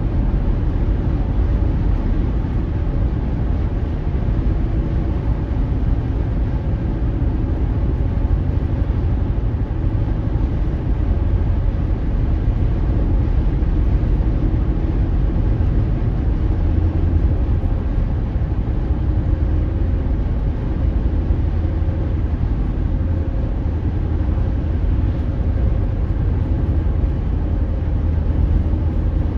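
Car driving along an unpaved, dusty road: a steady low rumble of tyres and engine.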